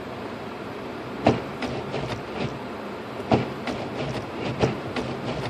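Steady road and cabin noise inside a car driving slowly on a snow-covered road, with a fast run of sharp ticks from about a second in, about three a second, typical of a hazard-light flasher relay; three of the ticks are much louder knocks.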